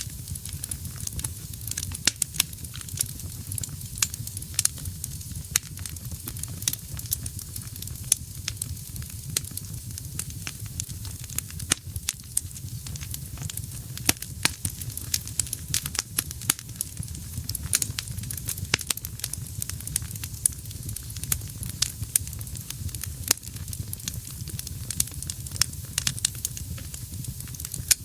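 Wood fire burning in a fireplace: frequent sharp, irregular crackles and pops over a steady low rumble of flame.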